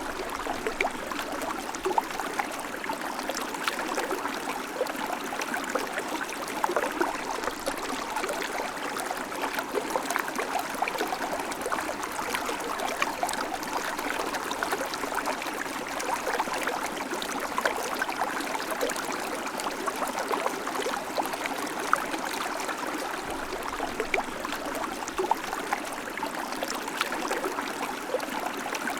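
River water flowing and babbling steadily, with many small splashes and trickles over the rocks.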